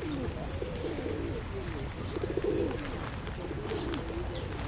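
Several pigeons cooing continuously, their overlapping wavering coos running together, with a few small birds chirping faintly above them and a low steady rumble of city traffic underneath.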